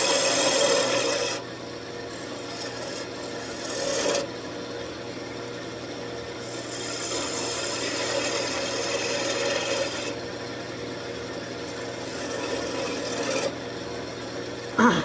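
Wood rasping against a spinning workpiece on a wood lathe, in several passes that swell and ease.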